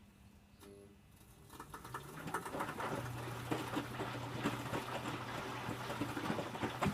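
Electrolux W455H commercial washing machine in its wash phase: the drum pauses briefly, then the motor starts with a short rising whine about two seconds in and settles into a steady hum as the drum turns, with the wet laundry tumbling and splashing inside.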